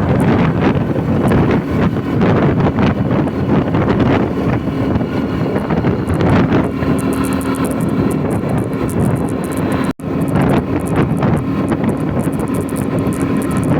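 Vehicle engine running steadily under heavy wind noise on the microphone while driving. The sound drops out briefly about ten seconds in.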